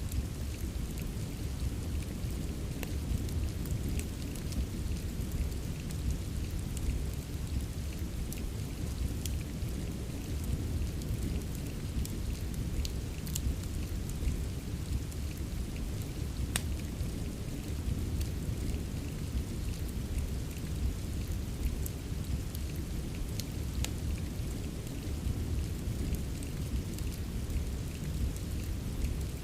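Steady rain with a deep continuous rumble underneath, mixed with the scattered sharp crackles and pops of a wood fire burning in a fireplace.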